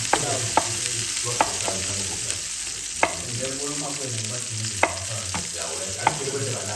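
Food sizzling as it fries in a pot, a steady hiss broken by sharp, irregular clicks and pops.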